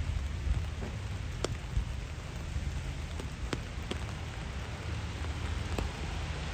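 Steady rain falling, with a handful of separate sharp drop ticks and a constant low rumble underneath.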